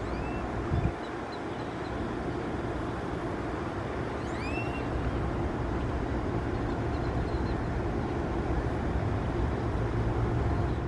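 Steady low background rumble, with a short low thump about a second in and two brief high chirps that rise and fall, the clearer one about four and a half seconds in.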